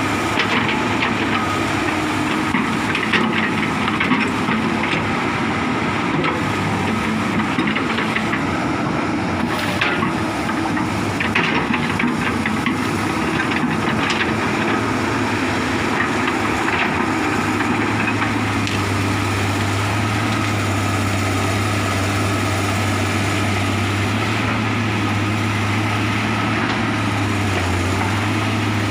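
Komatsu excavator's diesel engine running under load, with scattered sharp clanks and knocks. The low engine drone grows stronger about two-thirds of the way through.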